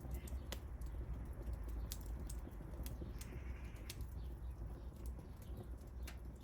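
Wood fire crackling: sharp, irregular pops and snaps over a low steady rumble.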